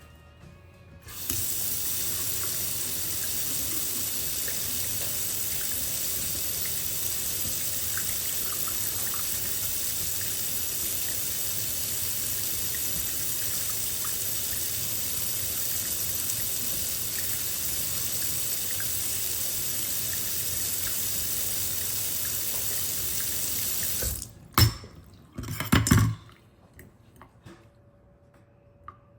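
Water running steadily from a tap into a sink, cut off sharply near the end, followed by a couple of loud knocks.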